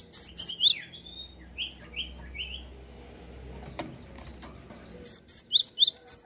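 Gelatik songbird singing in fast runs of sharp, high chirps, with a few lower down-slurred notes after the first run and a quieter gap in the middle. A second fast run starts about five seconds in, and there is a single click just before it.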